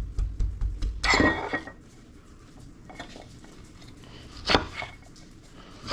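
Metal tools and parts clinking and clattering on a workbench, with a loud clatter about a second in and a sharp knock later on.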